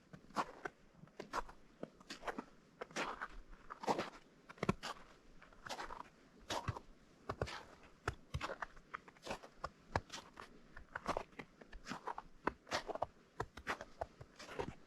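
Footsteps crunching on partly melted, granular spring snow at a steady walking pace, each step a short gritty crunch.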